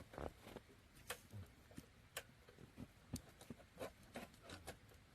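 Wood bonfire crackling, with faint, irregular sharp pops and snaps.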